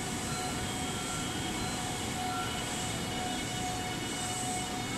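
JR 681 series electric train creeping into the platform as it arrives, a steady rumble with a thin whine that cuts off near the end.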